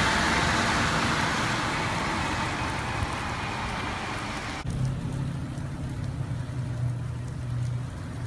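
A passing road vehicle's tyre noise, a broad hiss that slowly fades. About halfway through it cuts off abruptly to a quieter steady low hum.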